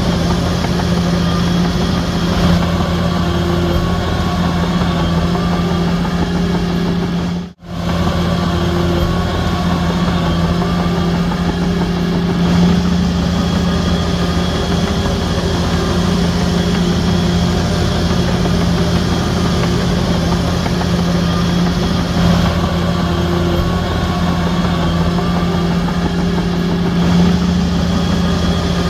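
Heavy diesel engine of a Shantui DH17C3 bulldozer running steadily at an even pitch. The sound cuts out for an instant about seven and a half seconds in, then resumes unchanged.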